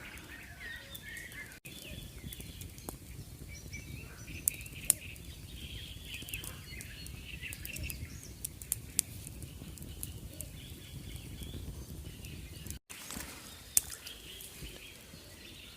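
Small birds chirping over a steady low outdoor background noise, with a few faint clicks.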